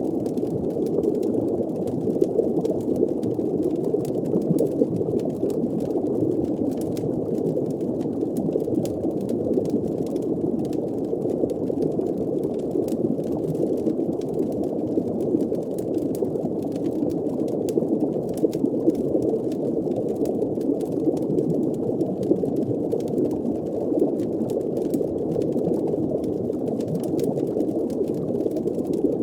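Steady, muffled underwater ambience: a low bubbling, churning wash of water with faint scattered clicks over it.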